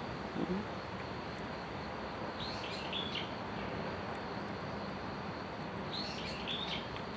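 A songbird calls twice, the same short chirping phrase each time, about three and a half seconds apart, over a steady outdoor background hiss.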